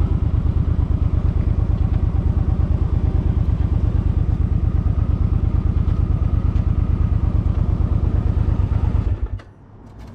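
Suzuki M50's V-twin engine running with an even, pulsing exhaust beat, then switched off about nine seconds in, the sound cutting off abruptly.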